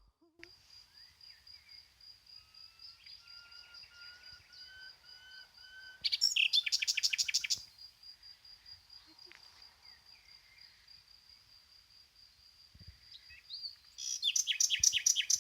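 Wild birds singing: a high, rapidly pulsing note runs on steadily under softer chirped phrases, and twice a loud, fast trill of repeated notes lasting about a second and a half breaks in, once midway and again near the end.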